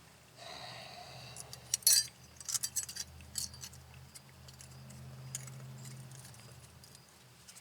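Small steel brake-pad hardware clips and brake pads clinking and clicking as they are handled and fitted into a disc-brake caliper bracket: a quick run of irregular metallic clicks, then a few scattered ones.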